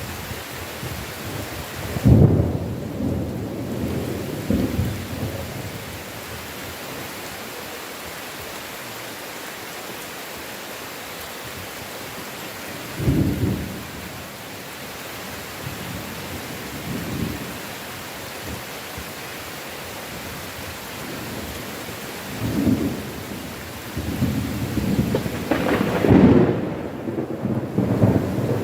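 Heavy, steady rain with thunder rumbling several times. The loudest crack and rumble comes about two seconds in, shorter rolls follow in the middle, and a longer stretch of rolling thunder builds near the end.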